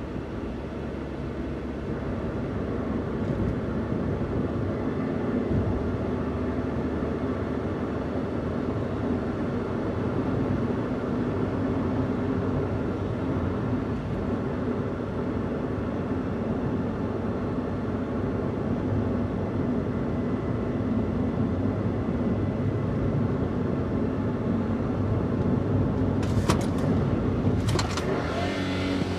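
Daihatsu Hijet kei van's stock-exhaust engine running on the move with steady road noise, picking up a little over the first few seconds. Two sharp clicks or knocks near the end.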